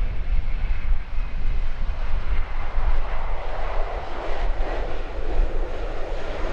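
Twin jet engines of a Boeing 767 landing in stormy weather: a steady rumble, with a rushing noise in the middle range that builds a few seconds in and eases near the end.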